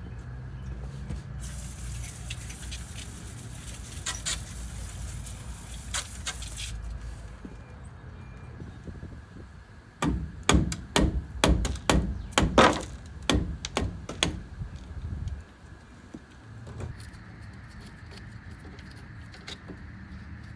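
A high hiss for several seconds, then a run of about a dozen heavy knocks over about five seconds, roughly two a second, during work on a pickup's brakes.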